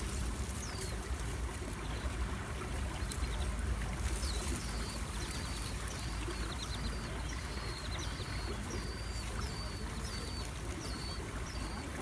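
Small songbird at its nest giving short high chirps, each sliding down and then levelling off, one near the start and then about two a second from about four seconds in. Under them runs a steady low rumble.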